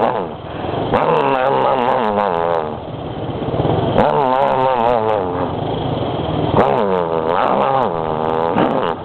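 A man imitating a motorcycle engine with his voice, a growling revving noise whose pitch wobbles up and down, made in three long phrases with short breaks between them.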